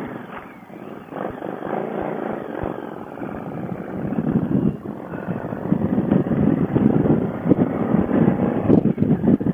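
Wind buffeting a motorcycle rider's open-faced helmet intercom microphone: a rough, rumbling rush that grows louder over the seconds.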